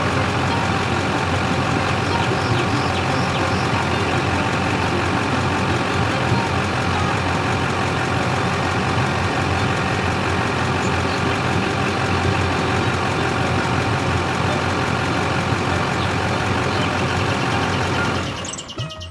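A motor running steadily and evenly, then cutting off near the end.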